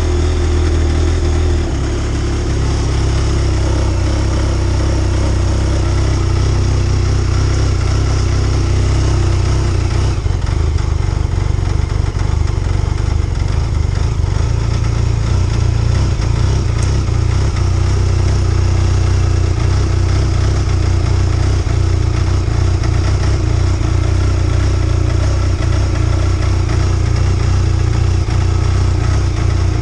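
Arctic Cat TZ1 Turbo snowmobile's three-cylinder four-stroke turbo engine idling steadily as it warms up after a cold start at −27 °C. The idle settles slightly lower about two seconds in.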